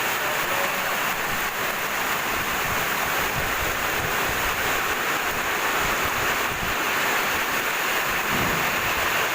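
Heavy storm rain pouring down in a steady hiss, with gusting wind rumbling on the microphone.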